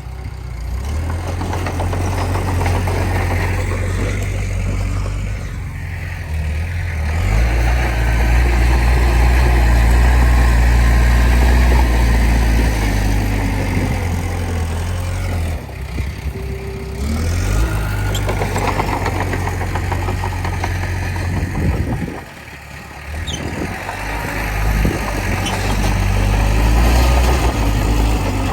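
Diesel engine of a Komatsu D20P bulldozer working, its low drone swelling and easing off by turns as the load comes and goes, with two short dips about halfway and again a few seconds later.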